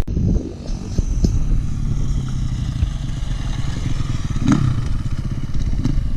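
Motorcycle engine running steadily, with a short knock about four and a half seconds in.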